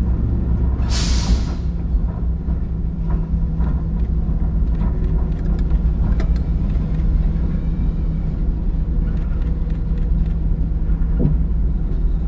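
Diesel locomotive engine running steadily, low and even, with scattered faint clanks and knocks. About a second in there is a short loud hiss of air.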